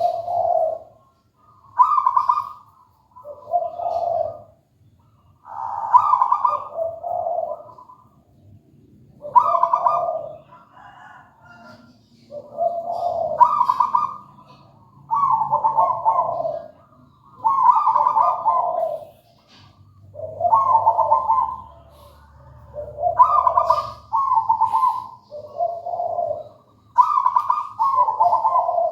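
Zebra dove (perkutut) cooing: repeated phrases of short coo notes alternating between a higher and a lower pitch, a new phrase every couple of seconds.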